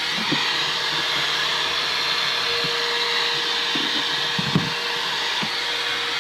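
Vacuum cleaner running steadily, sucking up the dirt and debris left from cable work, with a few short knocks of the nozzle against surfaces, the loudest about four and a half seconds in.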